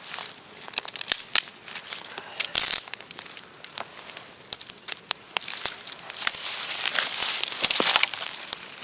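Wood campfire crackling, with sharp pops and snaps at irregular moments, and a denser rustling hiss for a few seconds in the second half.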